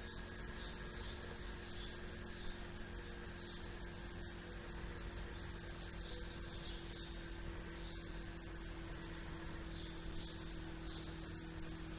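Faint, short chirps of small birds repeating irregularly over a steady low hum and background hiss.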